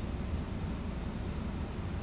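Steady low rumbling noise with a fainter hiss above it, unbroken and without distinct events.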